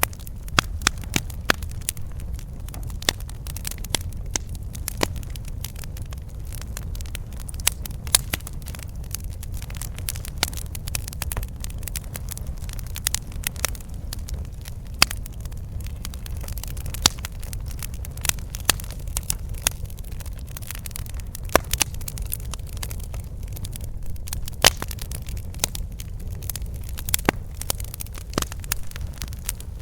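Campfire burning: a steady low rumble of the flames with frequent sharp, irregular crackles and pops of the burning wood.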